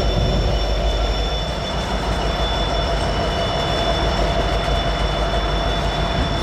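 Freight train rolling past with a low rumble, its wheels squealing in several steady high tones.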